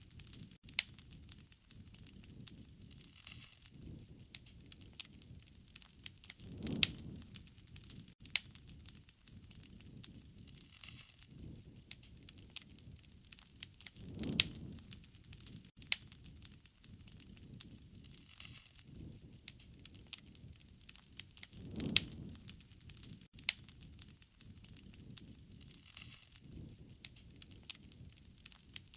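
Wood bonfire crackling: irregular sharp pops and snaps over a soft low rumble, with a deeper whoosh that swells and fades about every seven and a half seconds.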